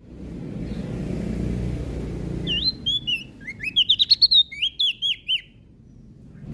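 Prenjak daun (cikrak daun), a small leaf warbler, singing a quick burst of high, sharply rising and falling notes, several a second, for about three seconds. The song starts a couple of seconds in, after a low rumble in the background.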